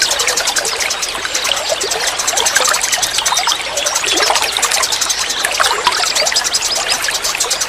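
Forest stream trickling and babbling, with birds chirping over it and a rapid, even high trill.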